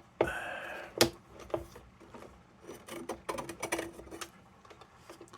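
Small metal lantern parts being handled and fitted together: a sharp click about a second in, then a run of light clicks and rattles.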